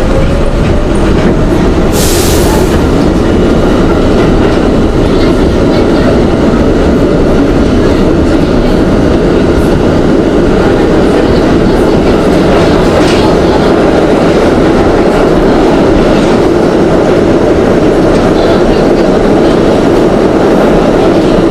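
Budd R32 subway car running at speed, heard from inside the car: a loud, steady rumble of wheels on rail and traction motors, with a short hiss about two seconds in.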